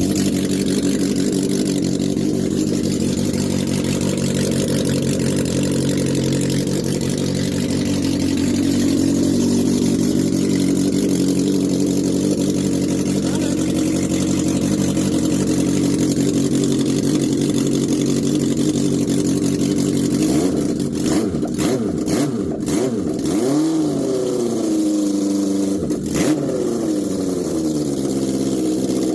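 Freshly built GSX-R engine on its first start-up run, idling fast and steady. From about 20 s in there are several sharp cracks, and the revs dip and rise a few times before it settles back to a steady idle.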